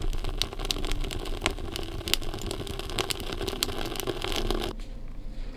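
Wood fire crackling in a small stove, with frequent sharp pops over a steady low rumble. It cuts off abruptly near the end.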